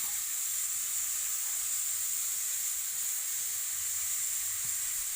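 Steady sizzling hiss of oil frying in a pan, even throughout with no breaks.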